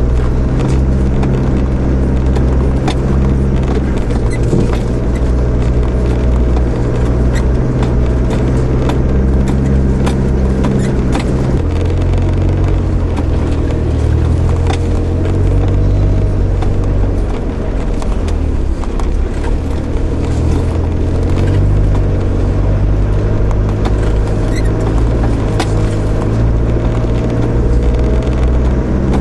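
A 4WD's engine heard from inside the cab, running at low revs over a rough muddy track, its pitch shifting up and down a few times. Frequent knocks and rattles come from the vehicle as it jolts over the ruts.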